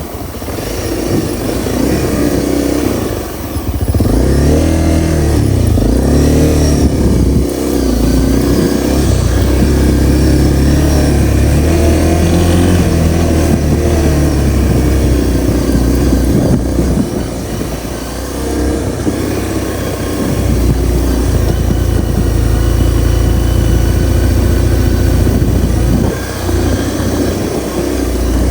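Honda CRF250L's single-cylinder four-stroke engine running under way. The revs rise and fall several times in the first few seconds, then hold steadier, with brief drops in throttle about two-thirds of the way through and again near the end.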